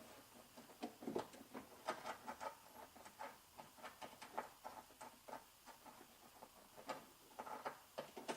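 Faint, irregular light clicks and scrapes of a small bolt and fingers working inside a car door's sheet-metal shell, as the bolt is fished off the impact bar and fed onto the door handle's mounting.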